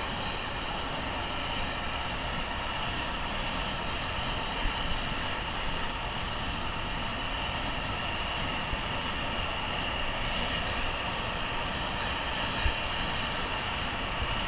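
Train running steadily: a continuous mechanical rumble with a steady high whine that neither rises nor falls, and a few brief low bumps.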